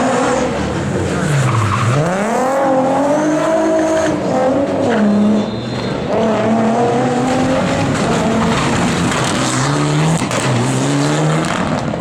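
Rally car engine driven hard. Its pitch drops steeply about two seconds in, then climbs again under acceleration, and it keeps rising and falling with the throttle and gear changes.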